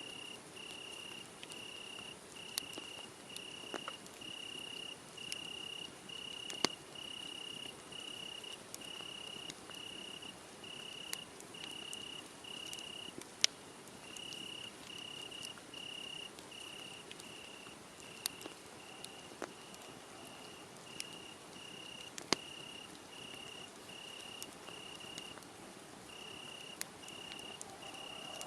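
Crickets chirping in a steady, even rhythm, about three chirps every two seconds, pausing briefly twice. Sharp crackles and pops from a burning wood fire come at random, the loudest just after halfway.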